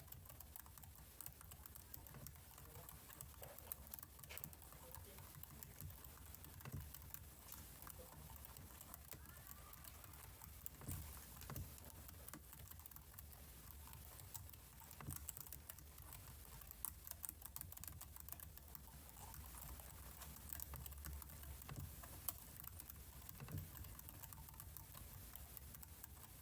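Faint, irregular clicking and tapping of a computer keyboard.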